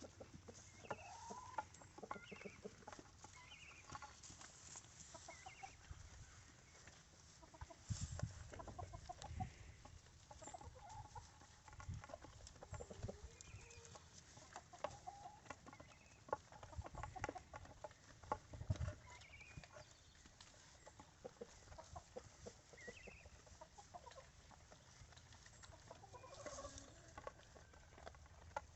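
Faint, scattered bird calls, short clucks or chirps, among many small clicks and knocks, with a couple of low thuds.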